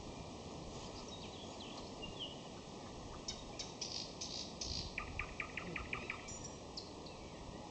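Nightingale singing in May: a phrase of high repeated notes a little over three seconds in, then a fast, even run of about eight lower notes at roughly seven a second, with a few high notes after, over a steady background hiss.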